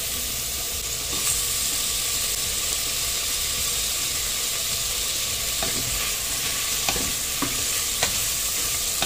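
Chopped tomato frying with onions in hot oil in an aluminium pressure cooker: a steady sizzling hiss. In the second half a wooden spatula stirs the mix, with a few sharp knocks against the pot.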